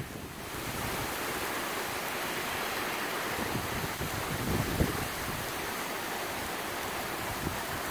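Hurricane wind rushing steadily, a constant hiss between gusts, with a brief low buffet on the microphone near the middle.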